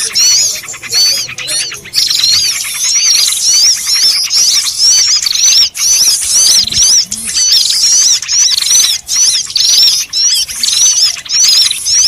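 Dense, noisy chorus of small birds chirping and twittering over one another in quick, repeated high notes: a bird-lure (pikat) recording made to call in small birds.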